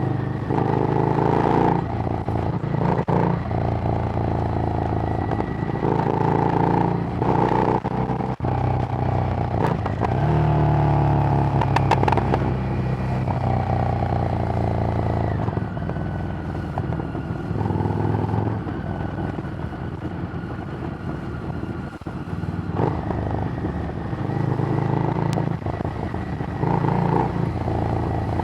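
Harley-Davidson Street Rod's 750 cc V-twin through a Screamin' Eagle exhaust, under way on the road. The engine note repeatedly climbs and drops back as it pulls through the gears and eases off, with stretches of steady cruising.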